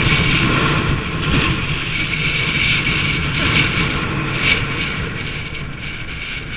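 Wind rushing over the camera microphone while riding a bicycle, with the rumble of the ride, slowly easing off toward the end.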